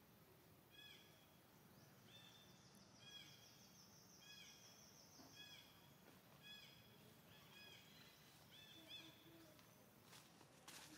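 Faint outdoor ambience with a bird calling in the background: a short falling note repeated about once a second, joined for a few seconds in the middle by a fast, high trill. A few soft clicks or rustles come near the end.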